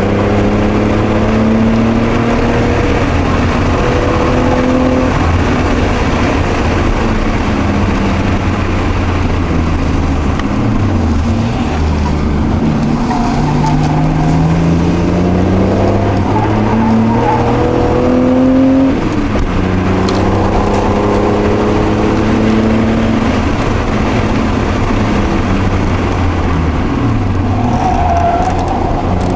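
Toyota Supra Mk2's 5M-E straight-six engine heard from inside the cabin at track pace, its pitch climbing under acceleration and dropping back at each gear change, over and over.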